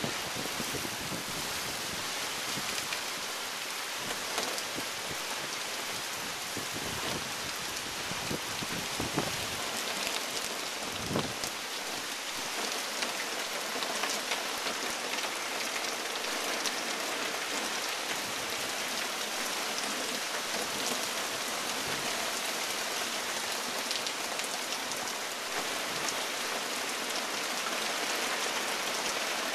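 Hurricane rain falling hard and steadily, a dense hiss of rain on surfaces. For about the first twelve seconds, gusts of wind also rumble on the microphone, then fade, leaving the steady rain.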